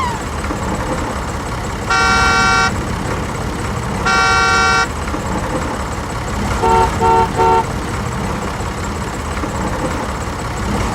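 A vehicle horn sounds two long blasts about two seconds apart, then three short, lower toots. Underneath is a steady, rumbling engine-like noise.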